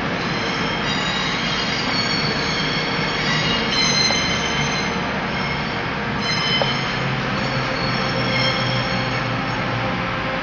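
Class 220 Voyager diesel multiple unit pulling into a platform, its wheels squealing in thin, shifting high-pitched tones over the steady running of its diesel engines.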